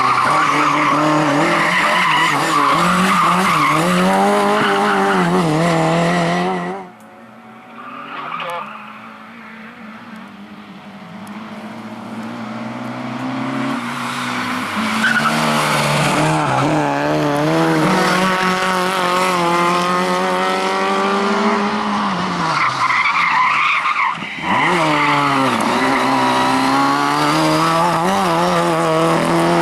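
Rally cars driven at full attack, engines revving hard up and down through gear changes, with tyres squealing as they slide. About seven seconds in the sound drops suddenly to a car far off, which grows steadily louder until it is close by. It cuts out briefly once more near the end.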